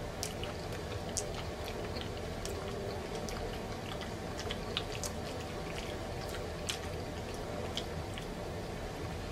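Close-up chewing of a mouthful of macaroni and cheese, with many short wet mouth clicks and smacks scattered throughout.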